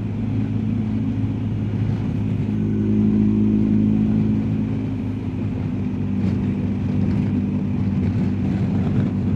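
BMW R1250GSA's boxer-twin engine running at a steady cruising speed: an even, low engine note under a rush of wind and road noise.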